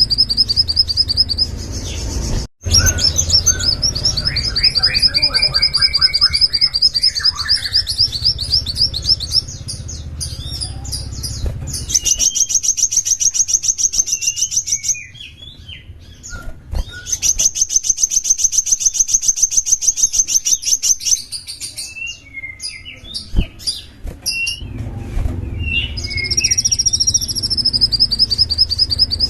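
Small songbird singing: long runs of rapid, high repeated notes, including two long even trills in the middle, over a steady low hum.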